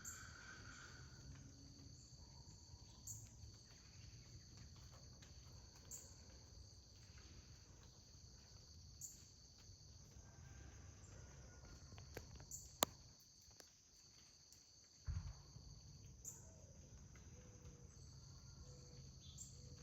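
Faint, steady high-pitched trilling of crickets, which stops and resumes in long stretches, over a low background rumble. A single sharp click about thirteen seconds in, and a soft thump a couple of seconds later.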